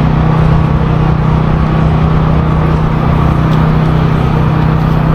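Steady low engine drone with an even rumble underneath, holding at one pitch and level throughout.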